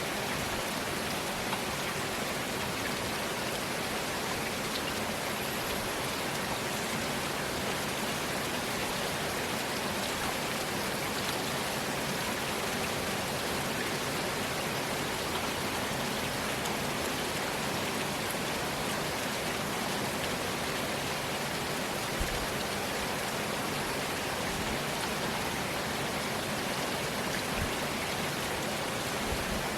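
Steady heavy rain falling and pattering on surfaces, with a couple of brief low thumps near the end.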